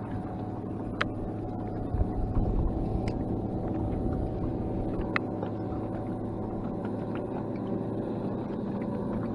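Steady hum of a fishing boat's motor, with a few light clicks scattered through it.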